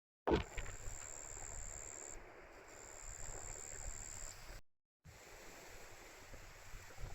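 Strong wind buffeting the microphone: a steady rushing rumble with a thin high steady tone above it. It starts suddenly and breaks off for a moment about halfway through.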